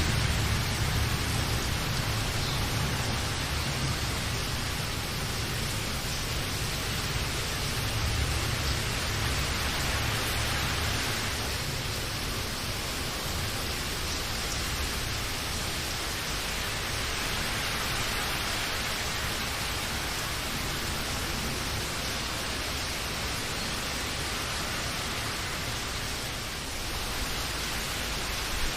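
Steady rain, an even hiss without a break, with a low rumble of thunder fading over the first few seconds.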